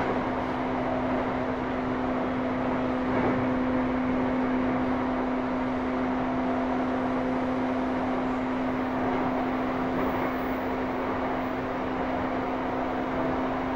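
Running noise inside a motor car of a JR E235-1000 series electric train moving along at steady speed: an even rumble of wheels on rail with a constant low hum. A fainter higher hum fades out about two-thirds of the way through.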